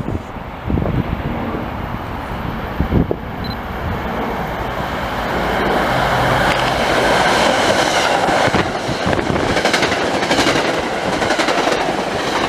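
MBTA push-pull commuter train running through a station at speed, cab car leading. A rising rumble of steel wheels on rail swells as it nears, then rapid clickety-clack as the cars pass close by.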